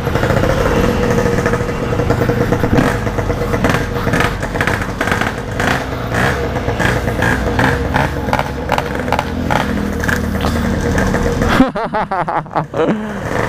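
Yamaha RX-King 135 cc two-stroke single-cylinder motorcycle engine running, with a steady engine note. Near the end the sound briefly breaks up and drops in level.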